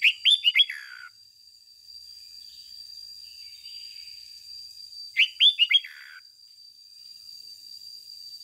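Red-whiskered bulbul singing: two short phrases of quick whistled notes that fall in pitch, one right at the start and one about five seconds in.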